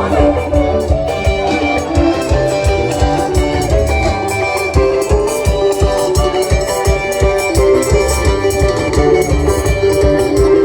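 Live band playing upbeat dance music without singing: drum kit keeping a fast, steady beat under guitar and melodic instrument lines.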